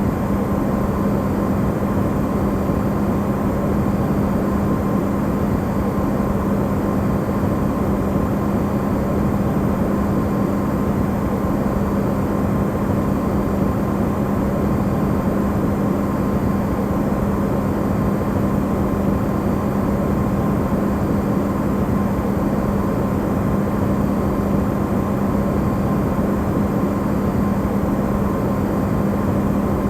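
Amplified recording of an Electrolux refrigerator running: a steady, unchanging hum with one strong low tone and a fainter higher one over an even rushing noise.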